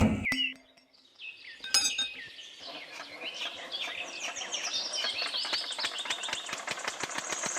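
Miniature home-made model engine starting up: a knock, a single click, then rapid clicking that speeds up into a fast, steady rattle over the last few seconds, with high chirping squeaks over it.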